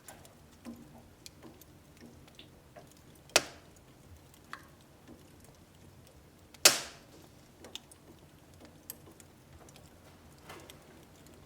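Firewood burning in a wood stove, crackling with scattered small clicks and two loud sharp pops, the second, about two-thirds of the way in, the loudest.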